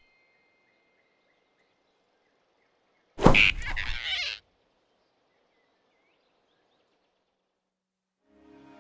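A single sudden, loud sound effect lasting about a second, over faint background ambience. Music starts near the end.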